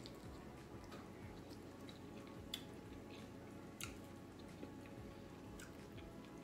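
Faint wet chewing and squishing of food eaten by hand, with a couple of sharp clicks about two and a half and four seconds in.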